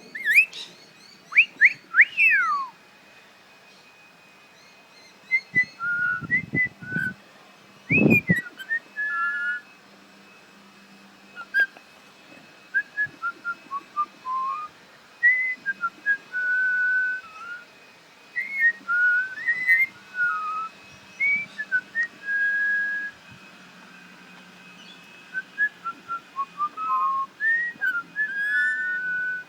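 Whistling: many short whistled notes that slide up and down, in loose phrases with pauses, beginning with a few sharper falling sweeps. There is a dull thump about eight seconds in.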